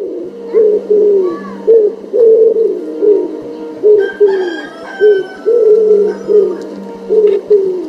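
Bird calls: a run of short, low notes, each falling in pitch, repeated about twice a second.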